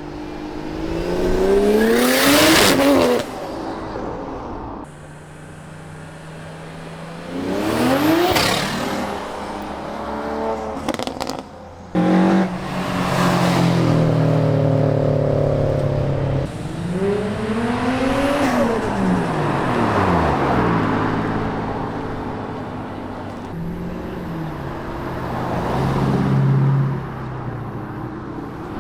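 Several cars accelerating hard past one after another, each engine climbing sharply in pitch as it revs out and then dropping away as it passes; some cars idle or cruise between the pulls.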